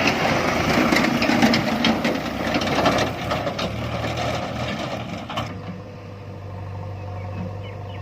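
Mahindra 585 DI tractor's diesel engine running with a clattering rattle over it. About five seconds in the sound changes abruptly to a quieter, steady low engine hum with faint high chirps over it.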